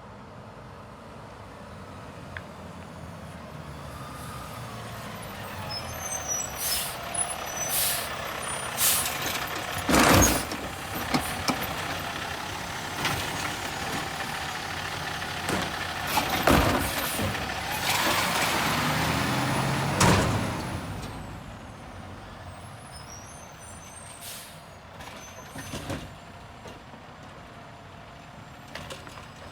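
Garbage truck working its collection route: the engine and machinery grow louder through the middle and then settle, with several loud bangs spaced a few seconds apart and a hiss of air brakes.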